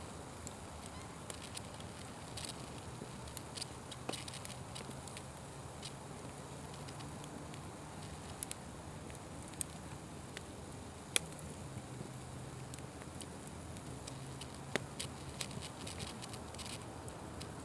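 Wood fire burning with a steady hiss and scattered sharp crackles and pops, one louder pop about two-thirds of the way through.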